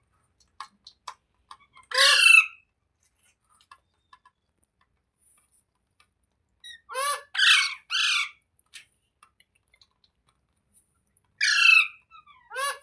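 A parrot giving harsh squawking calls: one about two seconds in, three in quick succession around the middle, and two more near the end, with a few faint clicks before the first.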